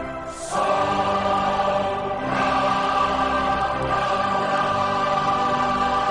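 Choir singing long held chords, moving to new chords about half a second in and again about two seconds in.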